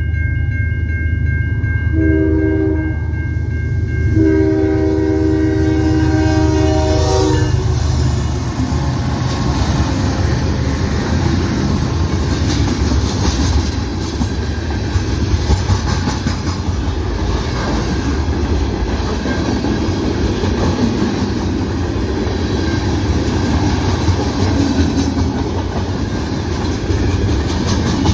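CN freight train's diesel locomotives passing close by, sounding a multi-chime air horn: the end of a blast, a short blast, then a long one of about three seconds, in the grade-crossing pattern. The engines rumble heavily as they go by, and after about eight seconds the freight cars roll past steadily with wheel clatter on the rail joints.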